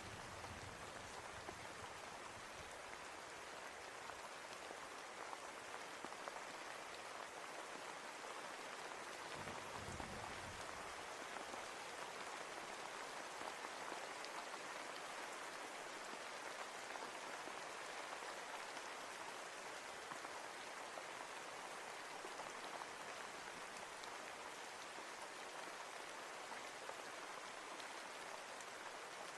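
Steady rain falling and pattering on surfaces, with a brief low rumble of distant thunder about ten seconds in.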